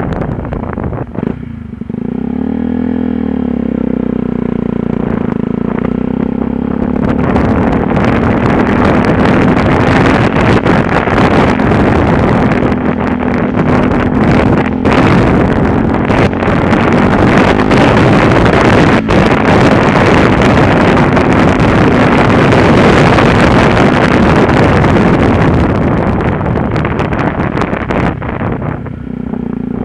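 Yamaha WR125R's single-cylinder four-stroke engine running under way, its pitch rising and dipping in the first few seconds. After about seven seconds a heavy rush of wind over the microphone mostly drowns it out, and the engine comes through clearly again near the end.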